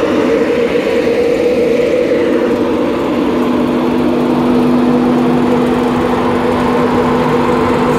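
Class 91 electric locomotive standing at the platform with its onboard equipment running: a steady, loud electric hum of several constant notes. A lower note in the hum grows stronger about three seconds in.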